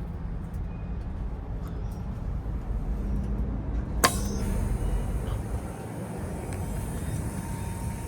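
Low, steady vehicle rumble, with one sharp click about four seconds in, after which a steady high hiss joins it.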